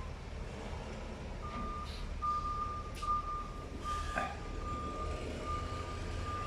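A heavy vehicle's reversing alarm beeping steadily on one pitch, starting about a second and a half in, over the low rumble of a diesel engine running.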